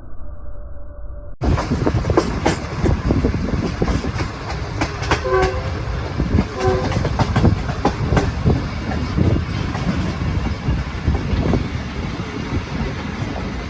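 Pakistan Railways passenger train running: steady loud rumble with the clatter of wheels over rail joints, and two short horn toots about five and seven seconds in. The sound changes abruptly from muffled to loud about a second and a half in.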